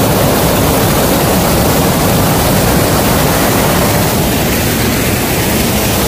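Stream water rushing over a small concrete weir and across rocks, a steady loud rush with no breaks.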